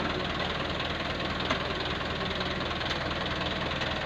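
Diesel dump truck engine running steadily at low revs with a clattering knock, with a couple of faint ticks.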